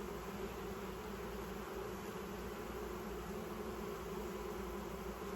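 Honey bees buzzing in a steady drone around an open hive as its frames are inspected.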